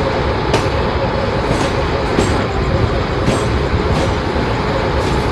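Train running by on the track: a steady loud rumble with sharp clacks of the wheels over rail joints about once a second.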